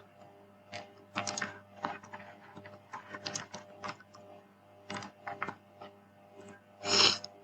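Typing on a computer keyboard: irregular clicks of keys being pressed as input values are entered. A short louder hiss comes near the end.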